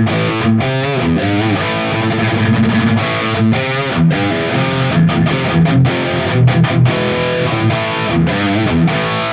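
High-gain distorted electric guitar played through a modelling unit's Mesa Rectifier ('Recto') amp model: low chugging riffs mixed with sustained lead notes bent with wide vibrato, several times.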